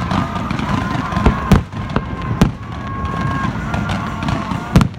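Fireworks going off: a run of sharp bangs, the loudest about a second and a half in and again near the end, over a continuous din of distant explosions.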